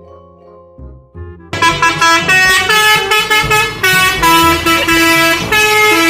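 Soft background music, then about a second and a half in a loud vehicle-horn sound effect cuts in and sounds a run of held notes at changing pitch.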